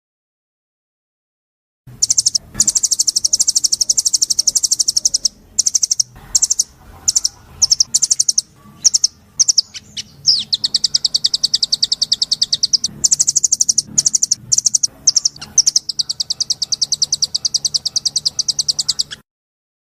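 A songbird singing long runs of fast, rapidly repeated high notes in trills, starting about two seconds in, breaking into short phrases with pauses in the middle, then stopping abruptly just before the end.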